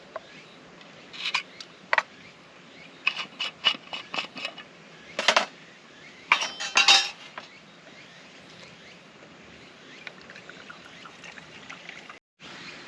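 Metal camp cookware and utensils clinking and knocking together in several short clusters of clatter, some strikes with a brief metallic ring.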